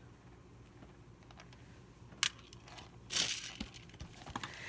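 A single sharp click about two seconds in, then a short clinking rustle a second later, as small hard objects are handled.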